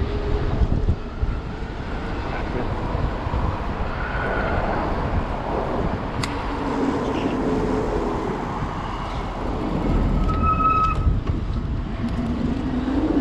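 Wind rumble on a body-worn camera and street traffic while riding an electric bike, with the e-bike's motor whine rising in pitch as it speeds up, at the start and again near the end. A brief high tone sounds about ten seconds in.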